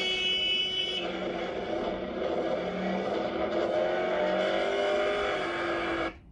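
Road traffic from a dashcam clip: vehicle engines running, with an engine note that slowly rises in pitch, then the sound cuts off suddenly near the end.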